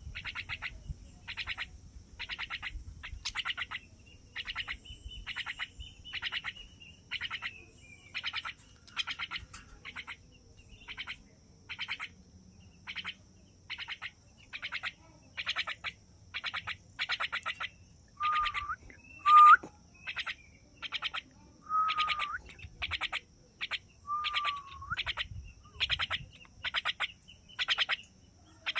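A bird calling over and over in short, rapid chattering bursts, about one and a half a second, with a few short whistled notes in the second half.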